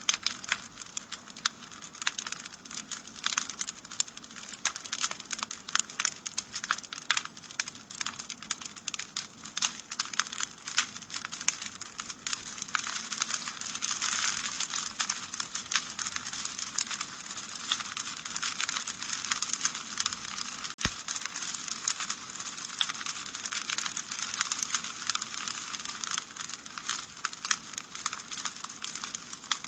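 Wood fire in a fireplace crackling: a dense, steady run of small snaps and pops over a soft hiss, with one sharper crack about two-thirds of the way through.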